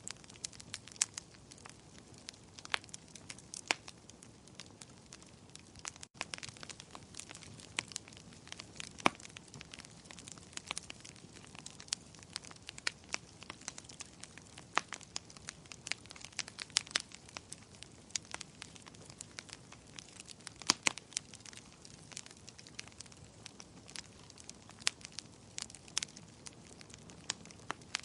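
A fire burning in a fireplace, crackling: irregular sharp pops and snaps over a low steady hiss.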